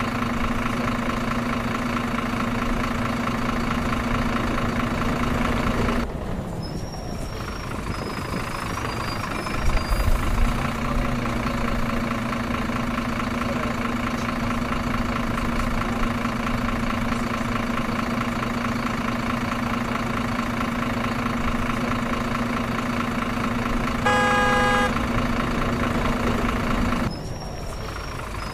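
Truck engine running steadily, with a horn sounding once for about a second near the end.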